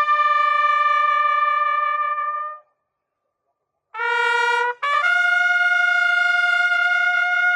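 Solo trumpet playing a slow ceremonial call of long held notes, in the manner of a military funeral salute. One note is held for about two and a half seconds, then after a pause of about a second comes a short lower note and a higher note held to the end.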